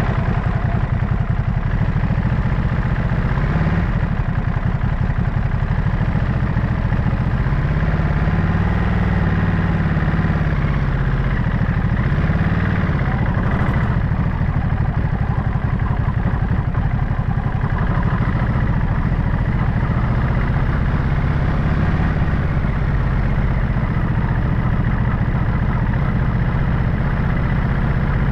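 Ducati Monster SP's 937 cc V-twin motorcycle engine running at low revs, its pitch rising and falling gently a couple of times.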